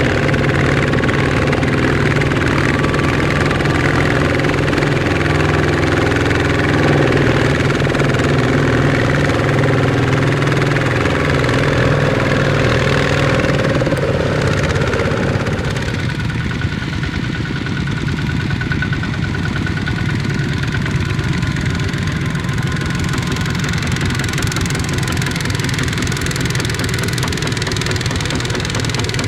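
Small Kubota ZT155 tractor's diesel engine running under load; about halfway through, the engine note drops and settles into a steadier, lower sound.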